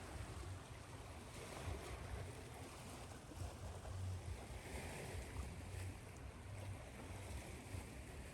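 Ocean surf washing steadily, mixed with an even hiss of white noise, with an uneven low rumble beneath.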